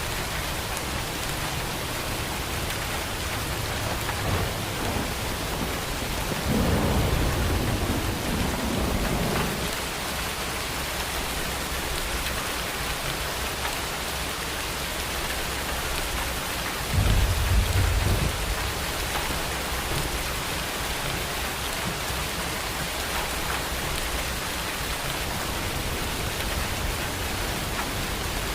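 Steady heavy rain falling, with two rolls of thunder: a longer rumble about a quarter of the way in and a shorter, louder low rumble a little past the middle.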